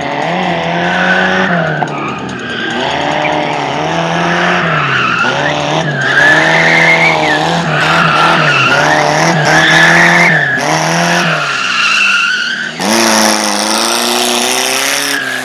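Car engine revving up and dropping back again and again, with tyres squealing through tight turns as a car is driven hard around a slalom course. The sound changes abruptly near the end.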